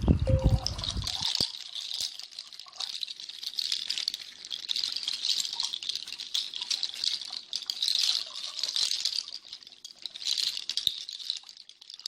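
Dense rattling, swelling and fading in slow waves, with a low rumble that stops about a second in.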